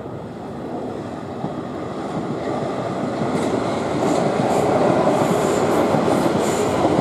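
Pair of Class 450 electric multiple units running past on the line. The wheel-on-rail running noise grows steadily louder, with short clicks from about three seconds in.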